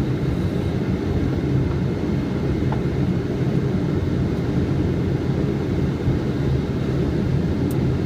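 Steady low rushing noise on a Boeing 777 flight deck during the approach to landing: airflow and engine noise.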